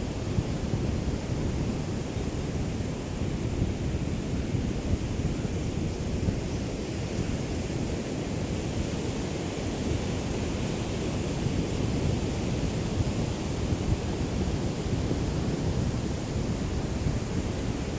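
Small waves of a calm sea lapping on the shore, a steady wash of surf without distinct breaks, with a low rumble of breeze on the microphone.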